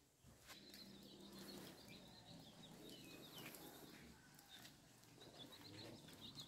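Faint bird chirps: many short, high-pitched calls, some gliding slightly in pitch, over a quiet rural background.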